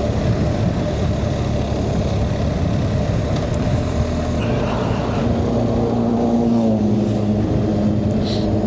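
BMW R 1250 GS boxer-twin engine running under way. Its note climbs for a couple of seconds, then drops back about seven seconds in.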